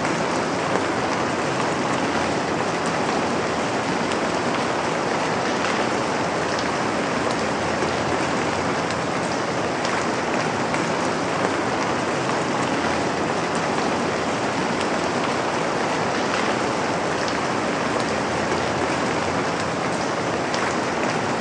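Steady rain falling and pattering on a surface, an even hiss with occasional individual drops.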